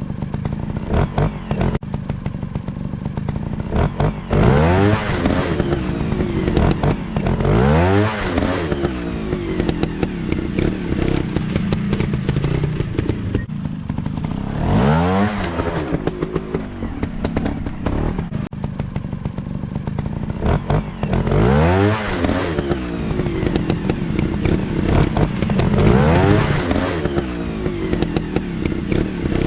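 Motocross dirt bike engines running hard, several times revving up to a high pitch and dropping back as the bikes accelerate and ease off, over a steady engine drone.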